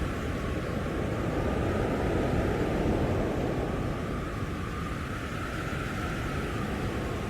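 Blizzard wind blowing steadily with a heavy low rumble and a faint howl that slowly wavers up and down in pitch.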